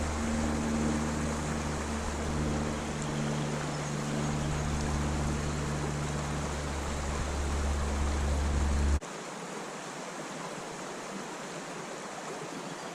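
Creek water rushing steadily, with a low rumble underneath that cuts off abruptly about nine seconds in, leaving only the steady flow.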